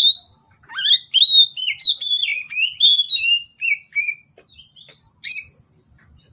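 Oriental magpie-robin (kacer) singing a fast run of varied whistled phrases, then falling silent for about a second before a single sharp call. A steady high-pitched tone runs underneath.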